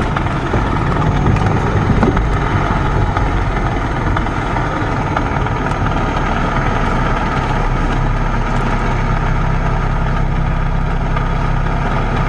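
Car engine running steadily at idle, a constant low rumble.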